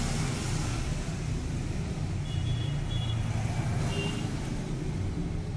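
A steady low mechanical rumble like a running motor or engine, with a few short, high, thin tones about two and four seconds in.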